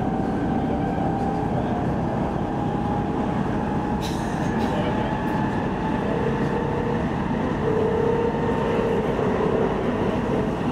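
Stockholm commuter-rail X10 electric multiple unit running at speed, heard from inside the carriage: a steady rumble of wheels on track with a faint whine that rises slightly in pitch. There is a short sharp click about four seconds in.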